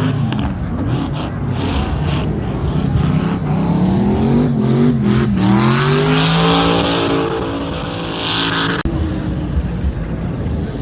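Performance car engine revving hard, its pitch rising and falling and climbing steeply midway; the loudest revving cuts off abruptly near the end, leaving a lower engine sound.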